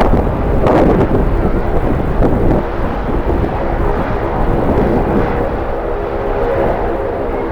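Jet airliner engines running, a steady hum of several held tones, under strong wind buffeting the microphone with an uneven low rumble.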